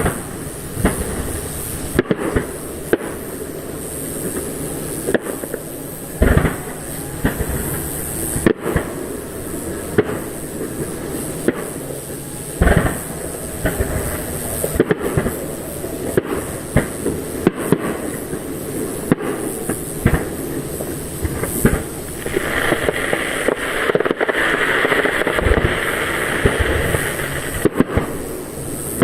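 Aerial fireworks display: shells bursting with sharp bangs at irregular intervals over a continuous rumble. About three quarters of the way through, a few seconds of dense crackling from crackle stars.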